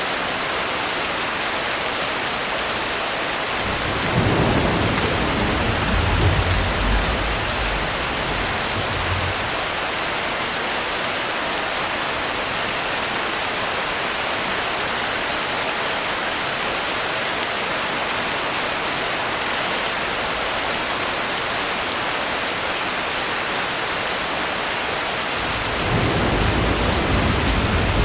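Steady heavy rain with thunder rolling twice: a low rumble about four seconds in that lasts around five seconds, and another starting near the end.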